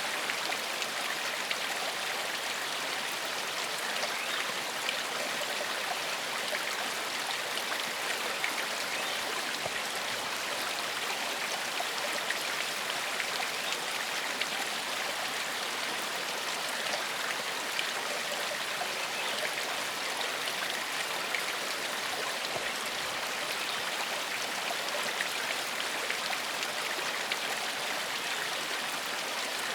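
Gentle forest stream flowing steadily, a continuous rush of water with fine splashing and trickling.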